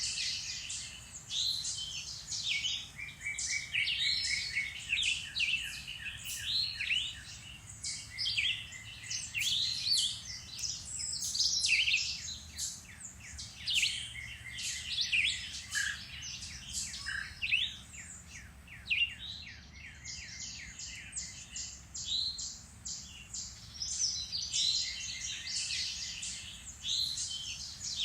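Several songbirds singing and calling over one another, with many short chirps and whistled phrases and one bird repeating a rapid, even trill.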